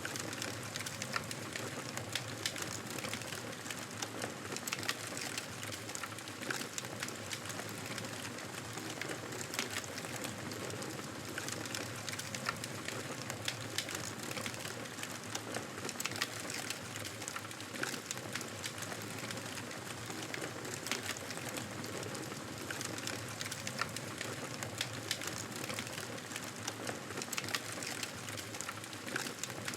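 Campfire burning, the wood crackling with many small irregular pops over a steady hiss.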